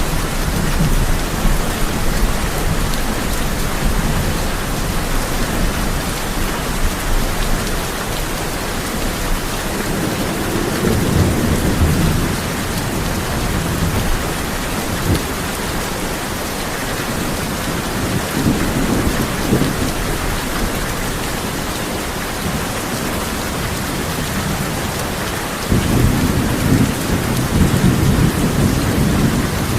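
Steady heavy rain on a tin roof, with rolls of thunder rumbling low underneath several times. Near the end a louder roll of thunder sets in suddenly.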